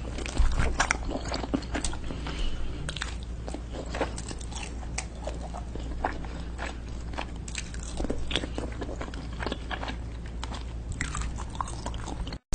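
Close-miked eating sounds: biting and chewing with many small crunches and wet clicks in quick, irregular succession.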